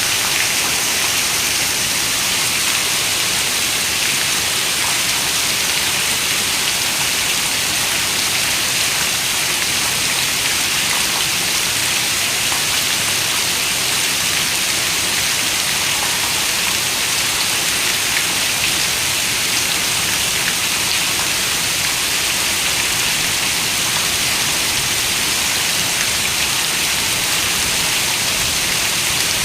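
Heavy rain falling in a steady, dense hiss, even throughout, with no thunder.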